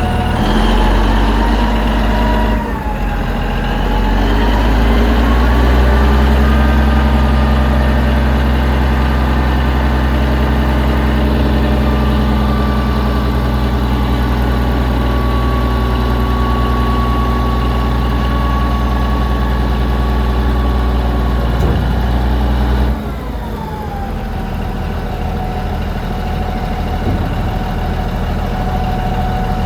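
Komatsu HD465-3 off-highway dump truck's diesel engine running. Its speed dips briefly about three seconds in, rises and holds at a raised speed, then falls back to a lower idle about 23 seconds in.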